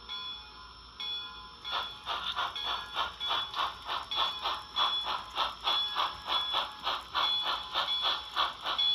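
HO scale model steam locomotive's DCC sound decoder playing steam exhaust chuffs through a small speaker as the engine backs up slowly, with a bell ringing. The chuffs start about two seconds in and run at about three a second.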